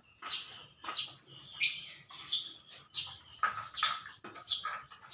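Small birds chirping: a run of short, sharp, high calls, about eight of them spread evenly over five seconds.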